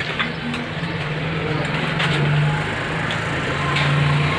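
Electric fan motor running on its test run after a burnt coil was replaced, giving a steady low hum that swells slightly a couple of times, with a few light clicks.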